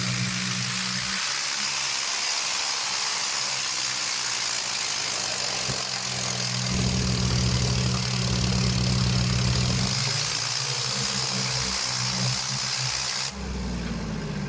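Tractor diesel engine running, its low hum swelling for a few seconds in the middle, over a steady loud hiss that cuts off abruptly near the end.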